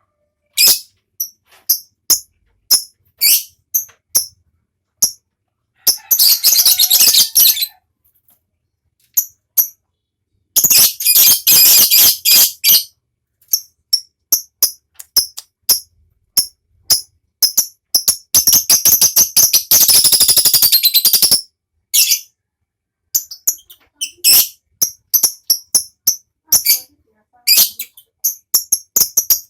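Lovebird calling: sharp, high chirps spaced about a second apart, broken three times by long, rapid chattering trills (the 'ngekek' song), the longest running about three and a half seconds. Toward the end the chirps come faster.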